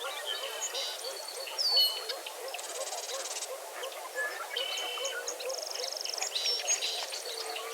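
Dawn chorus at a wetland: many birds calling and singing over one another, with whistled notes and fast buzzy trills, over a low call repeated a few times a second.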